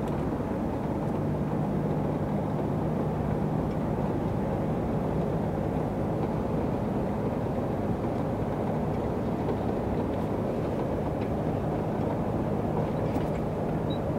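Lorry cab interior while driving: steady engine hum and road noise from the truck under way at an even speed.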